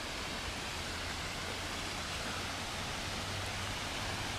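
Steady rush of flowing water in a small stream.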